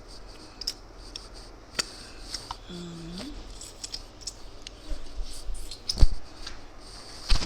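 Close-up eating sounds: chewing with scattered small clicks and crunches, a short hum about three seconds in, and two louder thumps near the end.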